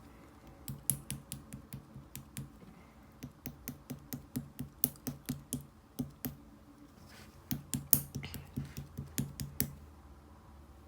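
A run of sharp clicks or taps, about three or four a second, pausing briefly about two-thirds of the way through, then a quicker run that stops near the end.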